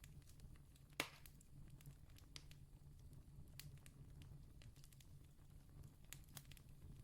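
Wood campfire crackling faintly: scattered small pops and snaps, with one sharper pop about a second in, over a steady low rumble.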